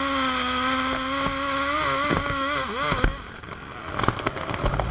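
Chainsaw running at high revs, a steady high engine note that wavers and drops in pitch about two and a half seconds in, then cuts off about three seconds in; a few light clicks follow.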